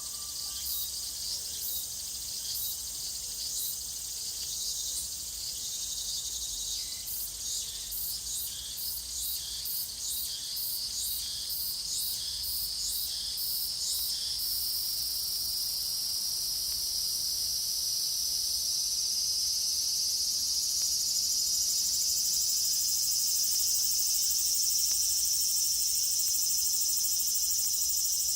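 Cicadas singing: a run of short, evenly repeated pulsed calls, then from about halfway a continuous high buzzing drone that swells and slowly rises in pitch.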